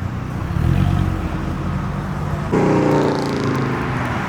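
Car engine running close by, with a second, louder engine note that starts suddenly about two and a half seconds in and then eases slowly down in pitch.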